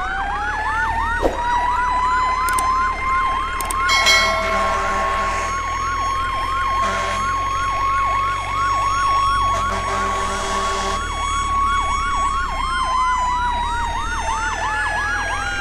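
Electronic siren sounding in fast repeated up-and-down sweeps, about three a second, over a steady held tone that slides down in pitch near the end.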